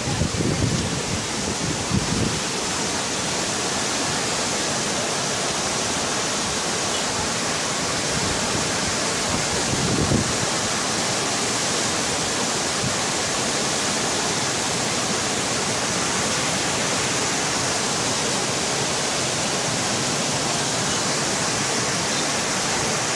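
Floodwater rushing in a steady, dense, unbroken noise, with a few brief low bumps about half a second, two seconds and ten seconds in.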